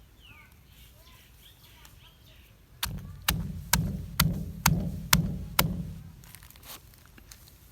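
Pestle pounding green papaya salad in a mortar: after a quiet start, a run of about seven sharp, even strikes, roughly two a second, each with a dull thud, beginning about three seconds in and stopping near the end.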